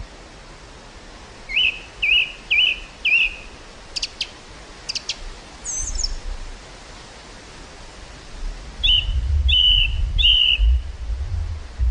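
Songbirds calling in an open field: a run of four short rising whistled notes about a second and a half in, a couple of sharp clicks around four and five seconds, a high note near six seconds, and three more rising notes near the end. Gusts of wind buffet the microphone as a low rumble in the second half.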